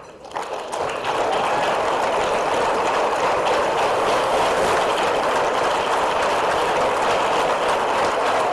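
Audience applauding, swelling up in the first second and then holding steady.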